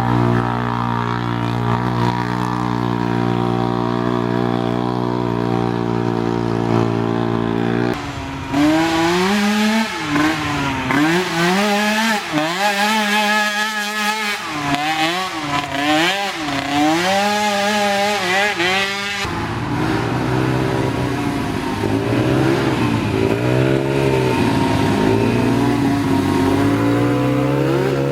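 Small race ATV engines: a steady, even engine note at first, then from about eight seconds in the engines rev hard up and down, their pitch rising and falling every second or so as they accelerate and back off around the course.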